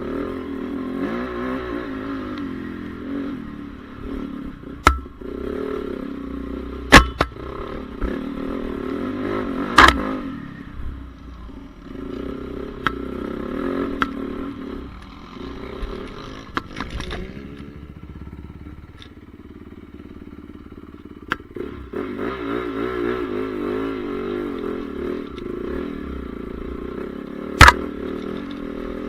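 Honda CRF450R motocross bike's four-stroke single-cylinder engine revving up and down as it is ridden round the track. It drops away for a few seconds about two-thirds through, then comes back. Several sharp, loud knocks cut across it, the loudest near the end.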